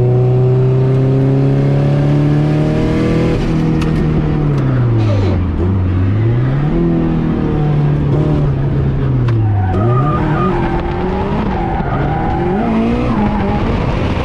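Turbocharged drift car's engine heard from inside the cabin, held at high revs for a few seconds, then repeatedly dropping and climbing in pitch as the throttle is worked through the slides, with tyres squealing.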